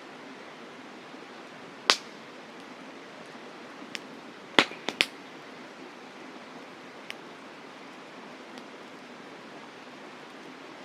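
Wood campfire crackling: a handful of sharp pops and snaps, the loudest about two seconds in and a quick run of three just before the middle, over a steady hiss.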